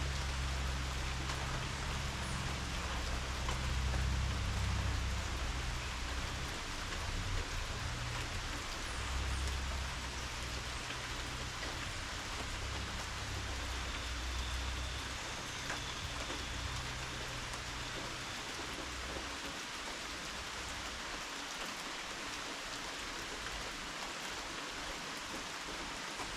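Steady rainfall, with a low rumble underneath that dies away about three quarters of the way through.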